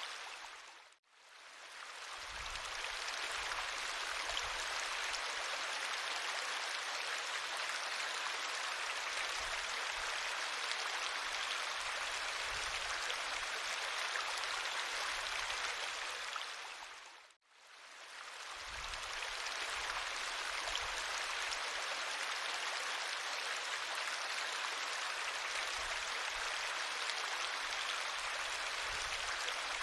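River water flowing in a steady rush. It fades out almost to silence and swells back in twice, about a second in and again about seventeen seconds in.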